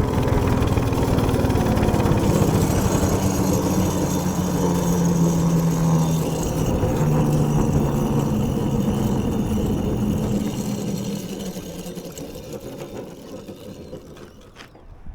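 Minibike's small gas engine running under way, its pitch held fairly steady with slight wavering. The sound then fades away over the last few seconds.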